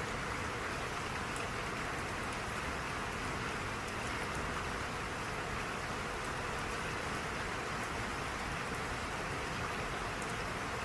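Steady rain, an even continuous hiss with a few faint droplet ticks.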